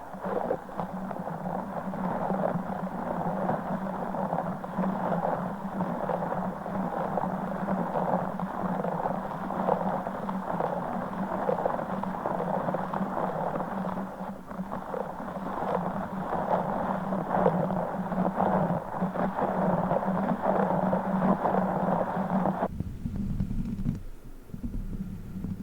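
A broken Orbeez ball being squeezed and worked close to the microphone, a dense run of fine crackles. It cuts off abruptly near the end, and a lower, rumbling sound takes over.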